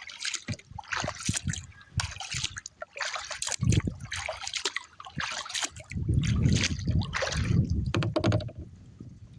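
Choppy lake water splashing and sloshing against a kayak, in irregular bursts. Wind buffets the microphone with a low rumble about four seconds in and again for a couple of seconds in the second half.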